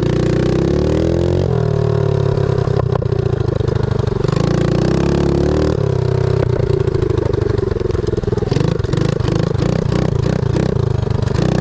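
Pit bike engine running hard under throttle, its note climbing and then dropping sharply about one and a half seconds and six seconds in, as it goes up through the gears. From about two thirds of the way through, the note rises and falls quickly as the throttle goes on and off.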